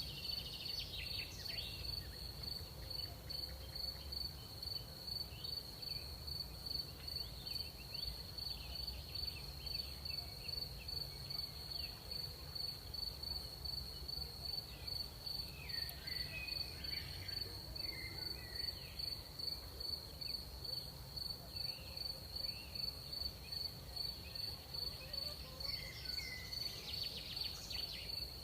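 Crickets chirping in a steady, even rhythm, about two pulses a second, over a low background rumble, with a few faint higher calls in between.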